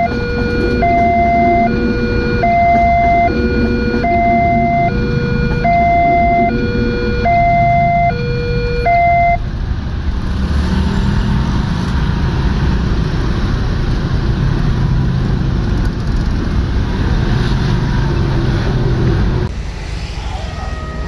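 Level-crossing warning alarm sounding an alternating two-note electronic tone, about one note every 0.7 s, that stops about nine seconds in. A train then passes over the crossing as a loud, steady rolling noise for about ten seconds, which drops away near the end as a different, higher tone pattern starts.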